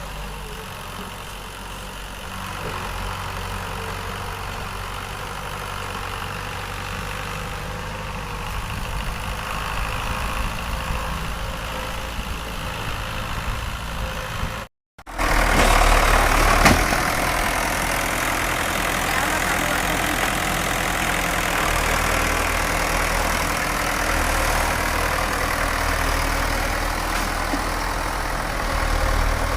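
Sonalika tractor's diesel engine running steadily. A brief break about halfway through, after which the engine is louder.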